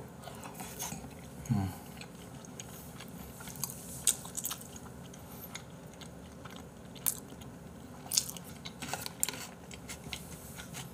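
A person chewing raw beef with the mouth close to the microphone: wet smacking and clicking mouth sounds throughout, with a brief hum about a second and a half in.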